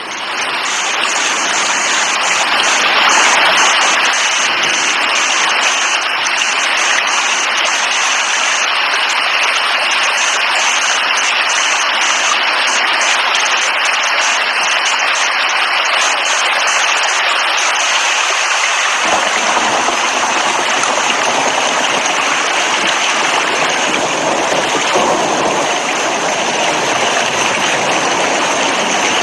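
Heavy rain falling steadily, a dense even hiss of water. About two-thirds of the way through, a deeper rumble suddenly joins in.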